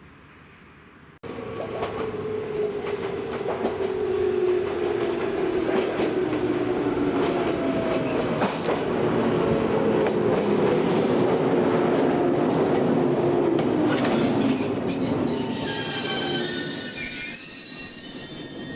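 Old JNR-type electric train running and slowing, its motor and gear whine falling steadily in pitch. High wheel squealing sets in near the end.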